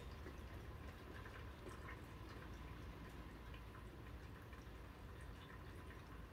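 Light rain, faint, with scattered drops ticking irregularly, heard from indoors through a window.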